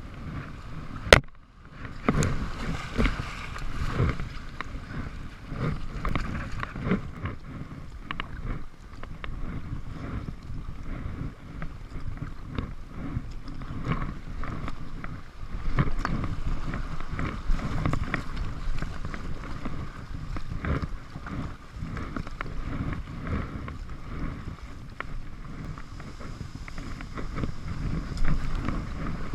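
Kayak on the water: uneven splashing and sloshing of water around the hull and paddle, with wind buffeting the microphone. A single sharp knock about a second in.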